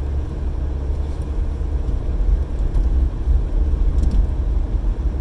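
Steady low rumble of a car heard from inside the cabin, with a few faint clicks about four seconds in.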